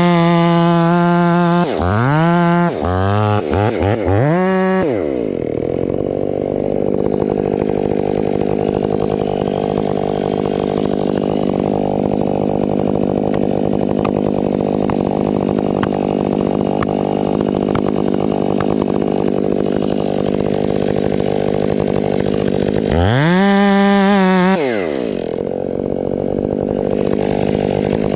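Stihl 500i two-stroke chainsaw running at high revs, then blipped up and down a few times before settling to a steady idle. Near the end it revs up once more, briefly, and drops back to idle.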